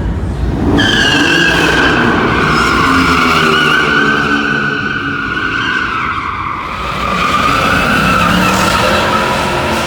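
Car tires squealing loudly and continuously as a car spins its wheels, with its engine running hard underneath; the squeal starts about a second in, eases briefly around two-thirds of the way through, then picks up again.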